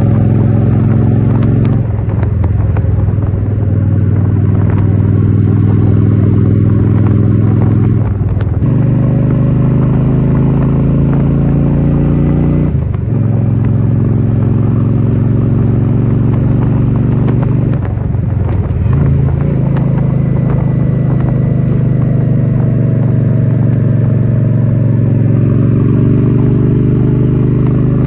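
Honda Shadow 750's V-twin engine running steadily while the motorcycle is ridden. The engine note dips briefly four times and picks up again, as with throttle changes or gear shifts.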